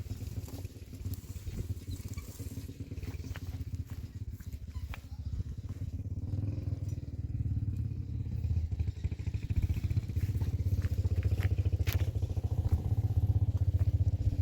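An engine running with a steady rapid pulse, growing louder over the second half.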